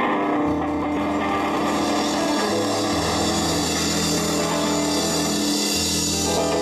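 Live rock band playing held chords over a bass line that moves between a few low notes, with a cymbal wash building in about two seconds in and dropping away just before the end.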